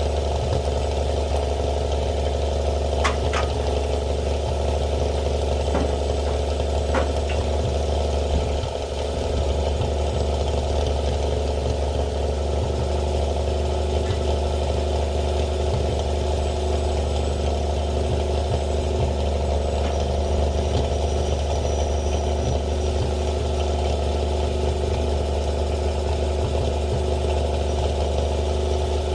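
A truck engine idling steadily, with a few short sharp clicks about three and seven seconds in.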